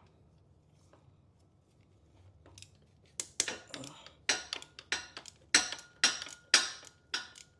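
Hand tools and sockets clinking against the engine's metal during starter removal: an irregular run of short, sharp clinks, about two to three a second, starting about three seconds in.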